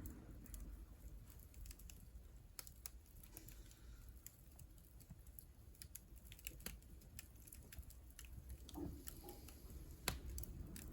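Faint crackling of firewood burning in a wood stove: scattered sharp pops and ticks at irregular intervals, one louder snap near the end.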